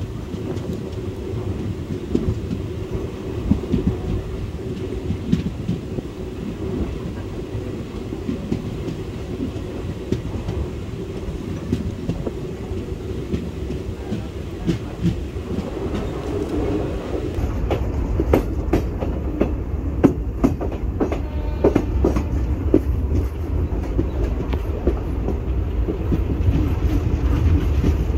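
Indian Railways express (12363 Kolkata–Haldibari Intercity Express) running at speed, heard from an open coach doorway: a steady low rumble of the coaches with wheels clacking over rail joints. The clacks come thicker and sharper from a little past the middle.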